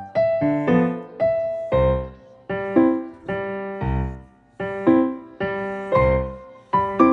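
Background piano music: a simple melody of single struck notes, about two a second, each ringing and fading.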